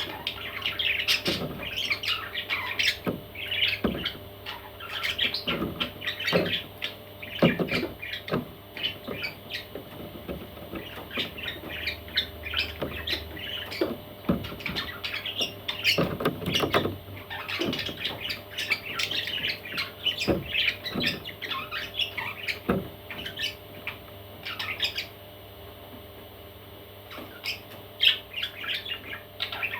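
Baby parrots calling in a rapid run of short, overlapping high calls, with a few low knocks among them. The calls stop for a few seconds near the end, then start again.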